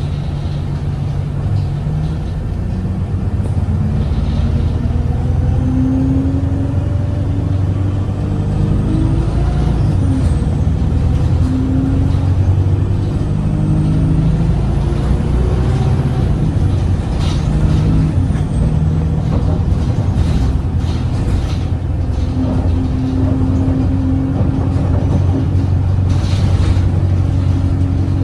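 Alexander Dennis Enviro 200 bus heard from inside while driving: its Cummins ISBe diesel engine and Voith automatic gearbox run steadily, the engine pitch stepping up and down through the gears. A faint high whine rises and falls twice.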